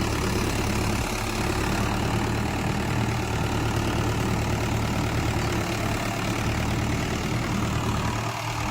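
Tractor diesel engine running steadily at an even speed, with no revving.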